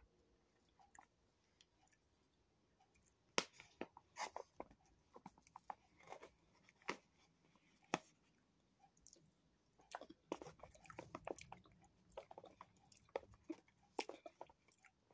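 A person chewing a mouthful of ration-pack sausage casserole close to the microphone: faint, irregular wet clicks and smacks, busier in the last few seconds.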